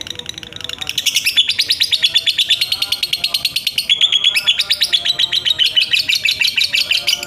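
Lovebird's 'ngekek': a long, rapid trilling chatter of high, evenly repeated chirps. It grows louder about a second in and pauses briefly about four seconds in before running on.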